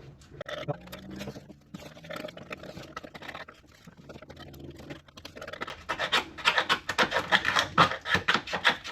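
Scraper blade scraping flaking paint off a caravan ceiling, lifted by water damage from a roof leak. Scattered strokes at first, then quick repeated scrapes in the last few seconds.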